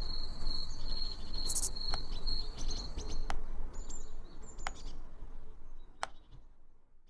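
Background ambience with a low rumble and a thin, high, steady trill through the first three seconds, with a few sharp clicks scattered through it.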